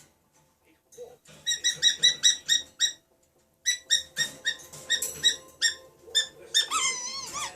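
African grey parrot whistling: two runs of short, quick, evenly repeated high notes with a brief pause between them, ending in a wavering, warbling whistle.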